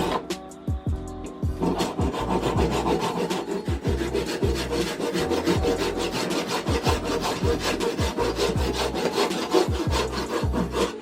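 Hand saw cutting through wood in quick, rasping back-and-forth strokes, starting about a second and a half in, with background music under it.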